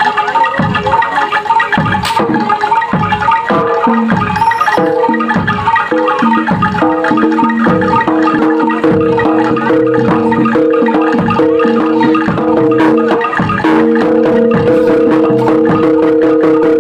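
Gamelan-style music: struck metal-keyed instruments playing over regular drum strokes, with held ringing notes joining in from about four seconds in.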